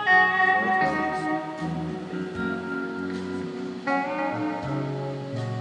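Live band playing the slow opening of a song: guitar notes ringing over sustained chords, with a new chord struck about four seconds in.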